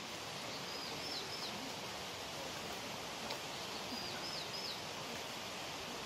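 Steady outdoor background hiss with a small songbird singing a short, high phrase of quick gliding notes twice, about a second in and again about four seconds in.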